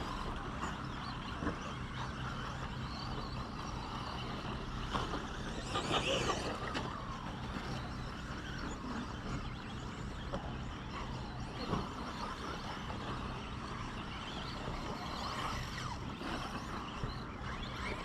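2WD RC short course trucks running around the race track, a steady mix of motor and tyre noise with a brief louder burst about six seconds in.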